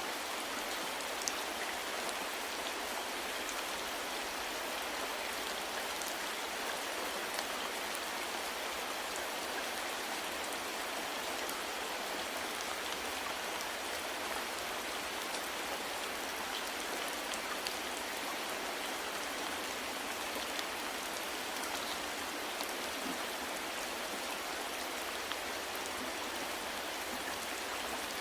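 Steady soft rain falling on a surface, an even hiss scattered with faint ticks of individual drops.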